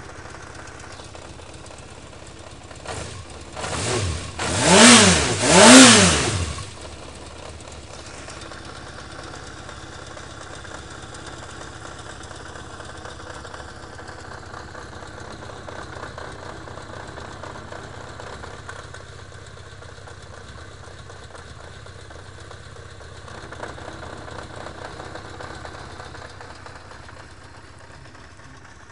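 Yamaha XJ600S Diversion's air-cooled inline-four idling, blipped three times about three to six seconds in, the revs rising and falling each time. It runs with a knock from the right side of the engine, the clutch basket knock familiar to Diversion owners.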